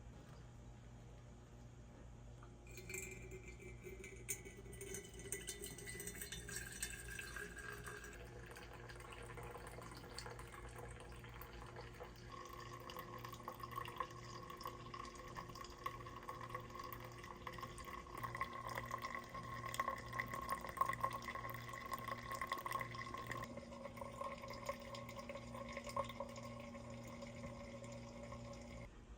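Water running into a container, with ringing tones that shift as it fills, starting about three seconds in and stopping just before the end, over a low steady hum.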